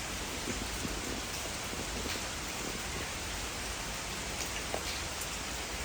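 Steady rain falling: an even hiss with a few faint scattered taps of drops.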